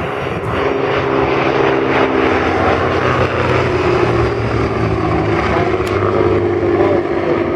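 Propeller aircraft's piston engine droning loudly as it flies past. The sound swells in the first second and then holds steady.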